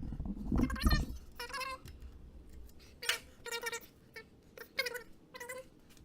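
A cat meowing: a string of about seven short, high-pitched meows, spaced unevenly.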